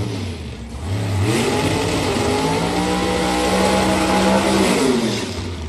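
Car engine accelerating hard: the revs climb steeply a little over a second in, stay high for a few seconds, then fall away near the end.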